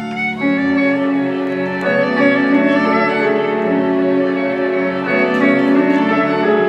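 Ballet accompaniment music led by bowed strings: sustained violin and cello notes, with a louder, lower note coming in about half a second in.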